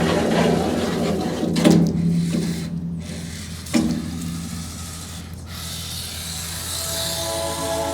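Scale RC rock crawler's brushed electric motor and geared drivetrain whirring as it drives, with two sharp knocks about two seconds apart from the rig striking hard surfaces. The whir fades out past the middle.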